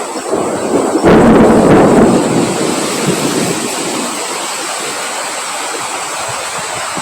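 Strong wind blowing, with a sudden loud, deep rush about a second in that slowly dies back down to a steady blow.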